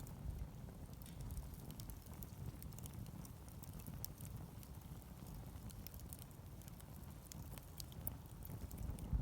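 Wood campfire burning, with small, scattered crackles and pops over a low, steady rumble.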